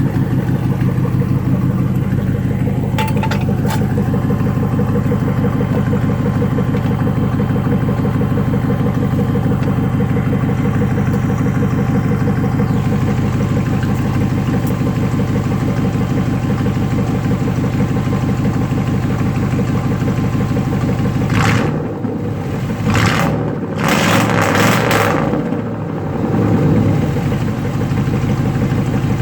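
1997 Chevy Tahoe's V8 running through true-dual straight pipes with no catalytic converters: a loud, steady, lumpy exhaust at idle. Near the end it goes uneven for a few seconds, with brief surges and dips.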